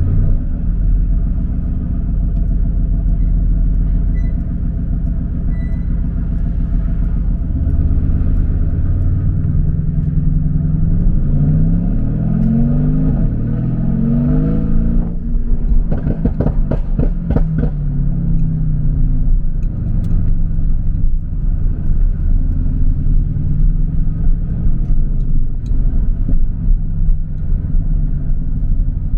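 Mercedes-AMG GT S twin-turbo V8 with aftermarket downpipes, under way at a steady drone. About ten seconds in the revs climb in rising sweeps through a couple of gears, then a rapid run of crackles and pops follows as the throttle comes off, before it settles back to a steady cruise.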